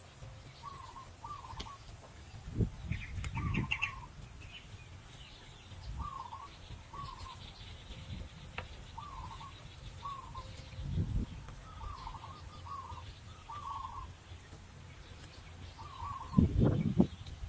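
Birds calling: short calls repeating every half-second or so, with a brief higher chatter about three seconds in. Several low thuds come in between, the loudest near the end.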